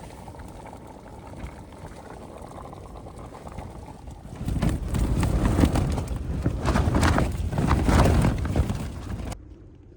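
A steady rush, then about four seconds in a strong gust of wind rattles and flaps the tent fabric hard for about five seconds before cutting off suddenly.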